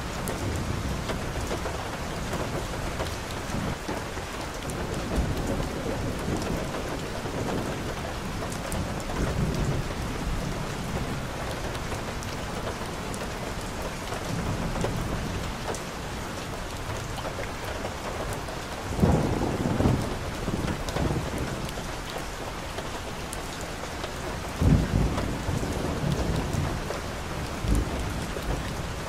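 Steady rain falling, with short low rumbles breaking through twice in the latter half.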